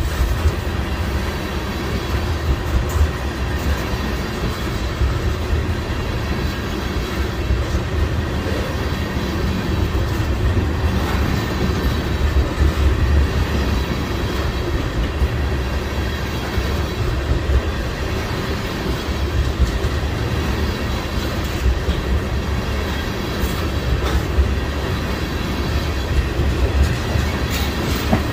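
Freight train of tank cars rolling past: a steady, loud low rumble of wheels on rail, with scattered clicks from the wheels.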